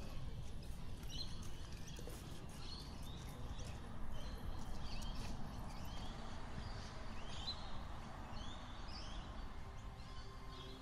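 Birds chirping in short, scattered calls over a steady low hum of outdoor background noise.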